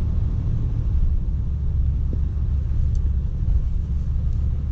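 1950 DeSoto Deluxe's flathead straight-six running steadily with a low rumble, heard from inside the cabin as the car rolls slowly out of the shop, still warming up after a cold start.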